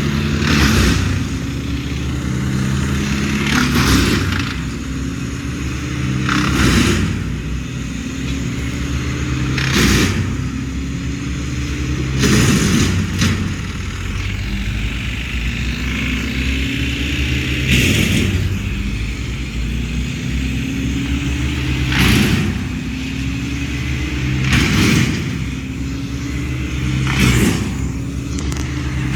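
An engine running under a repeating load: its pitch climbs slowly and drops back again and again, with a loud noisy burst about every three seconds.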